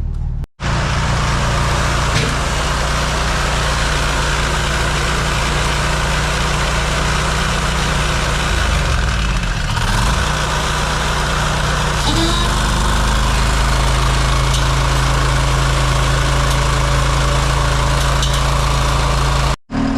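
Tool carrier's engine running steadily, its pitch dipping briefly and coming back about halfway through.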